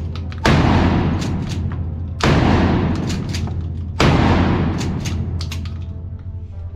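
Three 12-gauge shots from a Mossberg 590 Shockwave pump-action shotgun, about one and three-quarter seconds apart, each dying away over a second or more. Background music plays underneath.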